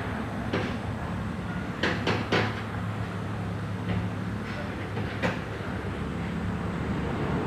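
A few short, sharp metallic clicks and knocks of engine parts and hand tools being handled while the timing marks are set, the clearest cluster about two seconds in, over a steady low background hum.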